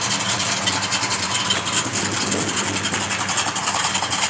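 1966 Dodge Dart GT's 360 V8 idling steadily, its exhaust pulsing rapidly and evenly.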